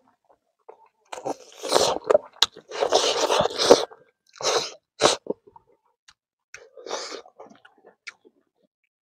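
Close-up eating sounds: a man chewing and crunching a mouthful of frog curry and rice, loudest in a long stretch over the first few seconds, then a few shorter bursts and small clicks.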